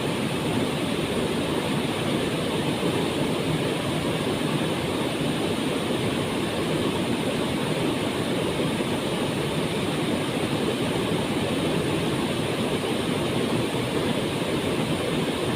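We'e Kacura waterfall: a steady, unbroken rush of falling water, full and deep with no rise or fall.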